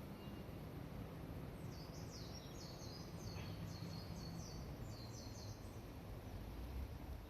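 A bird sings one high, rapid twittering phrase of short notes, lasting about four seconds from a couple of seconds in. Under it runs a steady low background rumble.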